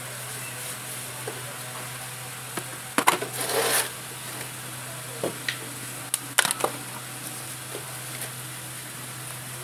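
Clinks and knocks of metal tools and motorcycle engine parts being handled on a workbench: a sharp knock with a short scrape about three seconds in and a quick cluster of clicks a little after six seconds, over a steady low hum.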